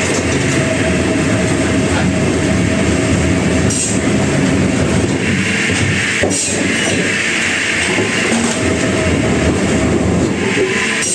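Sawmill machinery running loudly and steadily, with a hissing cutting noise that swells about halfway through and again near the end, and a couple of brief knocks.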